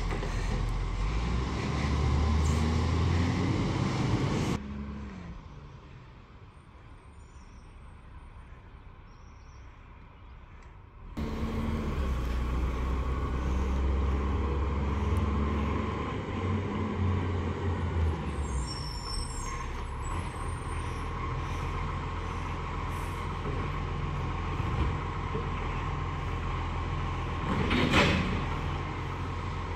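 Garbage truck engine running and revving, dropping much quieter for several seconds a few seconds in, then picking up again. A short hiss of air brakes comes near the end.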